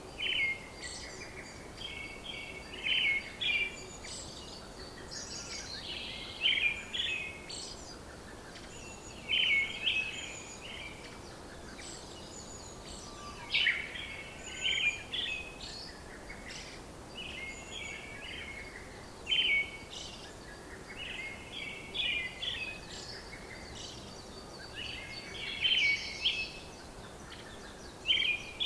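Birds chirping, short bursts of quick chirps every two to three seconds over a faint steady hiss.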